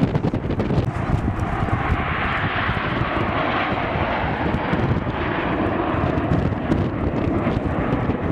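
Display aircraft flying past, its engine noise swelling about a second in and fading near the end, with wind buffeting the microphone throughout.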